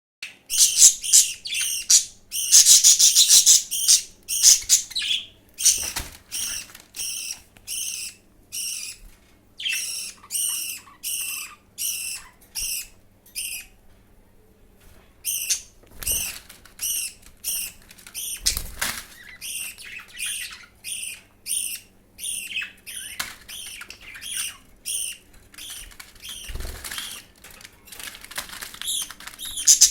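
Budgerigar chicks' begging calls during feeding: high, rasping cheeps repeated about two a second, with a longer unbroken stretch about three seconds in and a couple of short pauses. A few dull thumps come in between.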